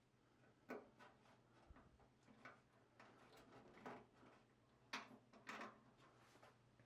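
Faint, scattered clicks and light taps of small parts being handled, about half a dozen, the loudest a pair near the end.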